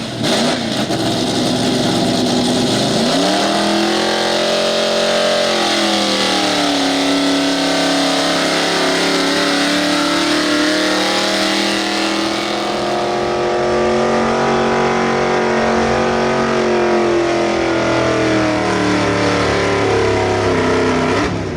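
Super street 4x4 pickup truck's engine at full throttle under load while pulling a weight-transfer sled. The revs climb sharply about three seconds in, dip briefly, hold high and steady for about fifteen seconds, then drop off near the end.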